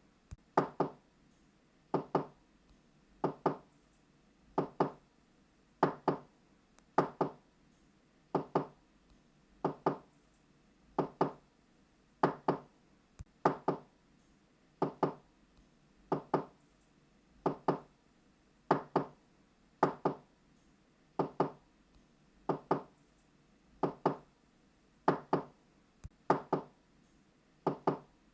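Knocking on a door in quick double knocks, 'knock knock', repeated at an even pace of about one pair every second and a half.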